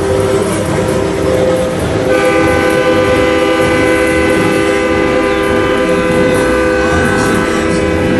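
Truck air horns sounding long, steady chords, a second, higher-pitched horn joining about two seconds in and holding with the first.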